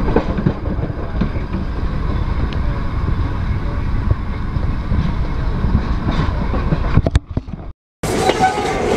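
Heritage train hauled by a diesel locomotive, heard from on board a carriage while rolling along the line: a steady low rumble of wheels and running gear. The sound drops out for a moment near the end and comes back brighter.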